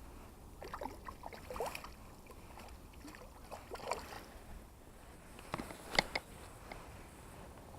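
Light water splashing and sloshing in short irregular bursts, with a few sharp clicks about six seconds in.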